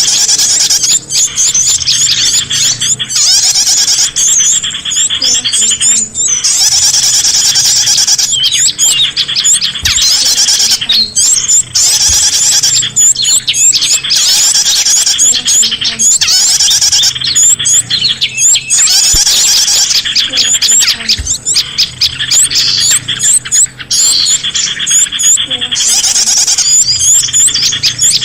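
Dense chorus of many small songbirds chirping and calling over one another, with short breaks every few seconds: a bird-lure recording played to draw small birds in.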